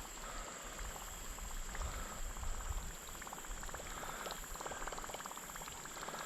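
Ultralight spinning reel being cranked steadily to retrieve a spinner lure, a fast fine ticking, over a steady high buzz of insects.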